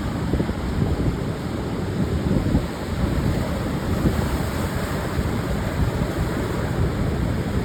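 Pacific surf washing steadily onto a wide sandy beach, with wind gusting against the microphone in low rumbles.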